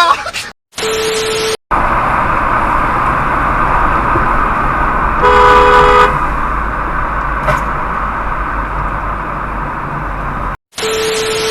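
Vehicle horn sounding once for under a second, about five seconds in, over steady road traffic and engine noise.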